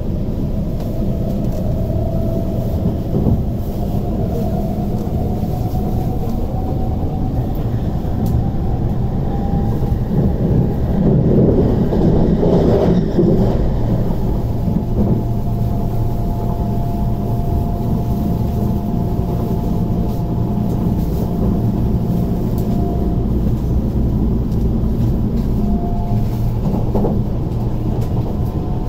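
Inside an MTR IKK-train (SP1900) electric multiple unit running at speed: a steady rumble of wheels on track with a whine that rises slightly in pitch, then holds steady. About eleven seconds in, a louder rush of noise swells for two or three seconds and fades.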